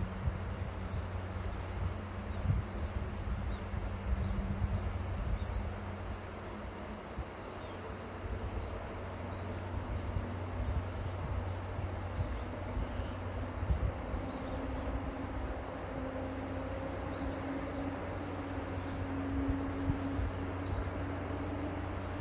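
Outdoor river ambience: a steady rush of noise with gusty low rumble, and a distant engine hum that slowly rises in pitch through the second half. Faint high chirps or ticks sound now and then.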